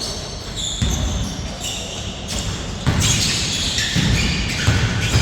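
A basketball bouncing on a court during a game, with irregular thuds a second or so apart.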